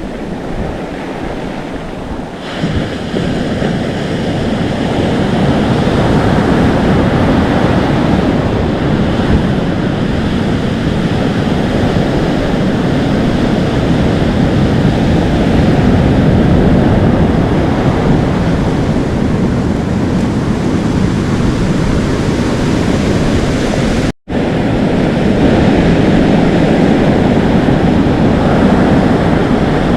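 Atlantic Ocean waves foaming, sizzling and crashing on the shore, with wind blowing across the microphone. The surf gets louder about two and a half seconds in, and the sound cuts out for a split second about 24 seconds in.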